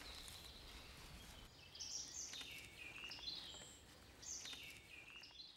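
A bird singing faintly over quiet outdoor background noise: two similar short phrases, one near the middle and one near the end, each stepping down in pitch.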